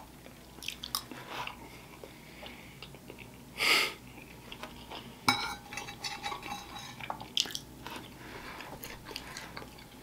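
Close-miked chewing and small mouth noises of a person eating soft food (mac and cheese and rice), with occasional light clicks of a fork on a ceramic plate. A brief louder noise comes about four seconds in, and a sharp click a little after five seconds.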